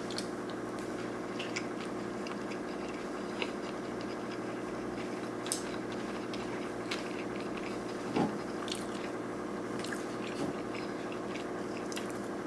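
Close-up chewing of sushi rolls: scattered soft mouth clicks over a steady background hum.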